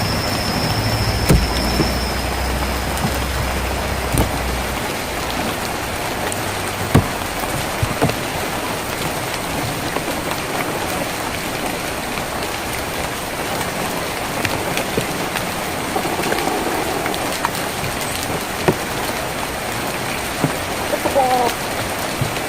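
Steady rain on a tin roof, an even hiss with scattered louder drops ticking on the metal. A low rumble underneath fades out in the first few seconds.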